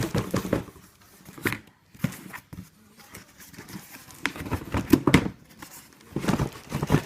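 Packaging being pulled and worked at by hand to open it: irregular rustling, scraping and crinkling in short bursts, loudest about five seconds in.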